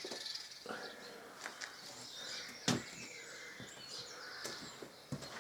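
Quiet outdoor ambience with birds chirping, broken by a few light clicks and one sharper click about two and a half seconds in.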